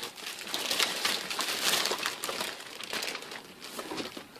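Packaging crinkling and rustling as it is handled, with many small irregular crackles, loudest around the middle.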